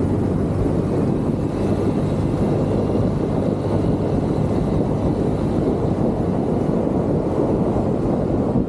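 Steady wind rush on the microphone over the running engine of a Genuine Buddy 170i scooter under way.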